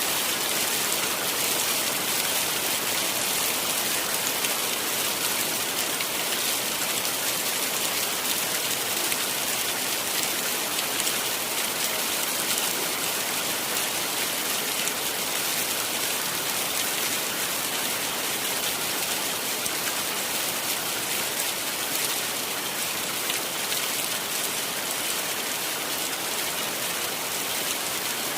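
Heavy rain falling steadily: an even, hissing patter of drops that does not let up.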